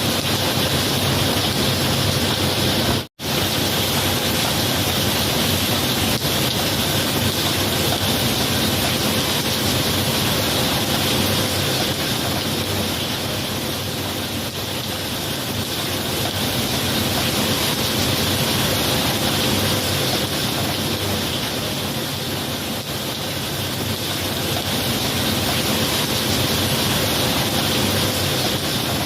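Steady heavy rain, a dense even hiss that swells and eases slightly, with an instant of silence about three seconds in.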